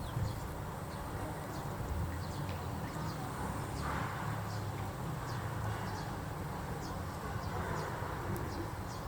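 Outdoor ambience: a steady low rumble with faint, short, high chirps repeating about once or twice a second.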